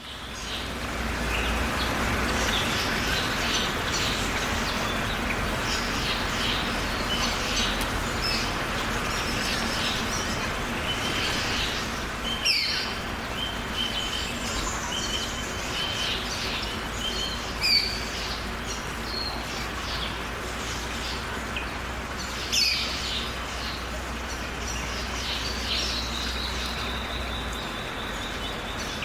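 Many birds chirping and calling over a steady hiss of rain, fading in at the start. A few louder calls stand out, and a thin steady high note sounds near the end.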